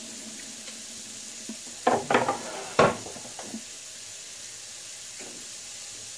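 Diced meat, onions and tomatoes sizzling steadily as they sauté in oil in a stainless steel pot, with three sharp clattering knocks about two to three seconds in.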